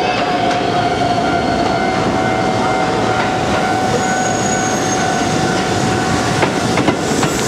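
Keisei 3300-series electric train pulling in at low speed, its wheels squealing with a steady high tone on the curved track. A few sharp clacks come near the end as the wheels cross rail joints and points.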